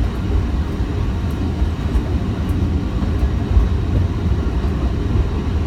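Small forest-railway train running, heard inside its passenger carriage as a steady, loud, low rumble of wheels and carriage while it passes through a long tunnel.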